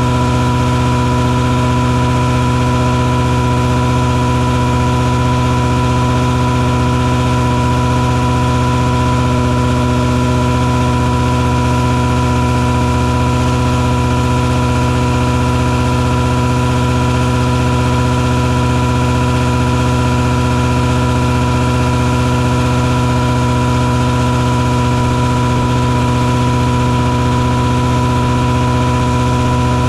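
Mosquito-fogging truck running with its fogging machine on: a loud, unbroken engine drone with a steady hum, constant in pitch and level throughout.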